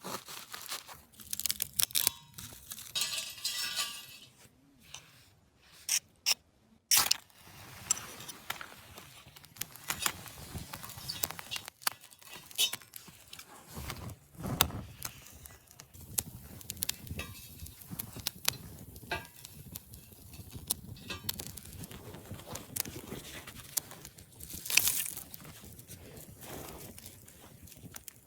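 Irregular small clicks, clinks and knocks of objects being handled, with brief rustling.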